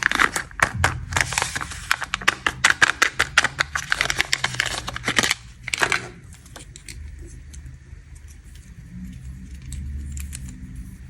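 Snack packaging being handled and opened: a rapid crinkling and clicking of plastic wrappers that stops about six seconds in, leaving only a faint low hum.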